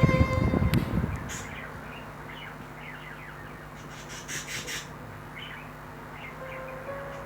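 Music fades out about a second in, leaving birds chirping with short, high calls over a steady low hum.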